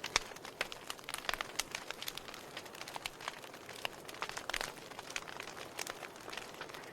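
Logs burning in a fireplace: a soft steady hiss with irregular sharp crackles and pops, several a second.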